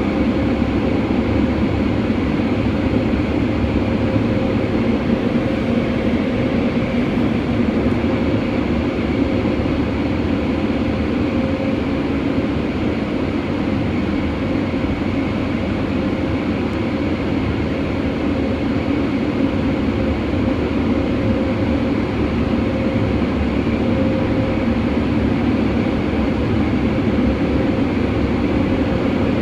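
Oasis Eclipse car wash dryer blowers running: a loud, even rush of air with a steady hum that does not change.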